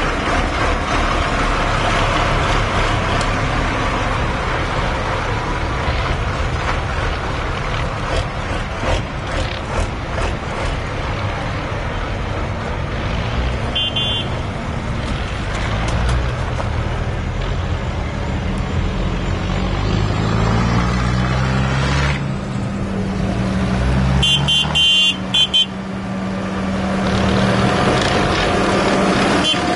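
Tractor engines running as tractors drive past, with an engine's pitch rising as it pulls away about 20 s in. Short high horn toots sound about 14 s in, then a quick series of them about 25 s in.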